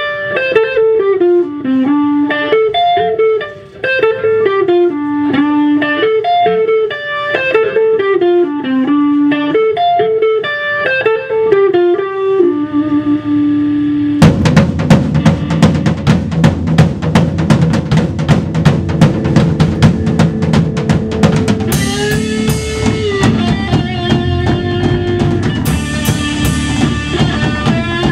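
Rock instrumental: a plucked guitar plays a melodic riff alone, then about fourteen seconds in the drum kit and full band come in with a steady beat.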